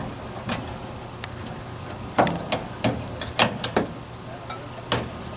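A scattered series of sharp knocks and clicks, about nine, bunched in the middle, over a steady low hum from the boat.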